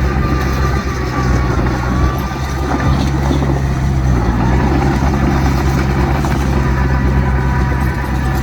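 Heavy diesel engine of earthmoving machinery running steadily and loudly, a deep even drone with a faint higher whine over it.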